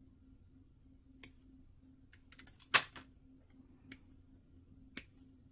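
Scattered sharp clicks of hard plastic model-kit parts being handled, cut and fitted during a Gunpla build: a few single clicks and a quick cluster about two and a half seconds in that ends in the loudest click. A faint steady hum runs underneath.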